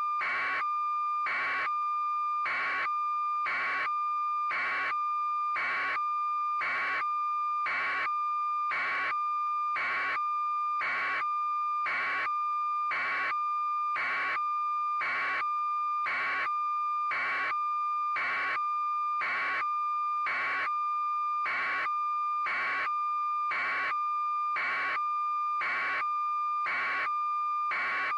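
A steady electronic tone held without change, overlaid by an even pulsing beep about three times every two seconds.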